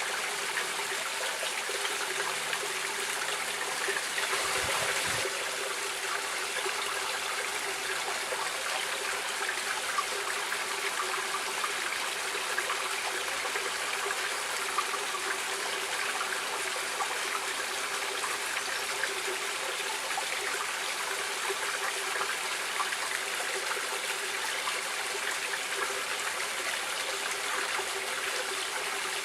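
Stream water flowing and trickling in a steady, dense rush, briefly a little louder about four seconds in.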